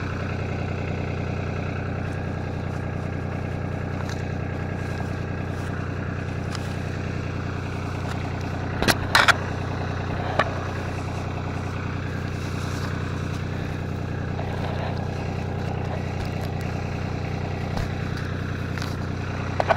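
Kubota RTV utility vehicle engine idling steadily, with a few short sharp knocks about halfway through.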